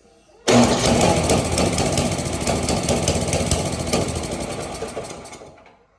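Snowblower's small gas engine fires up suddenly, runs loudly for about five seconds, then dies away and stalls.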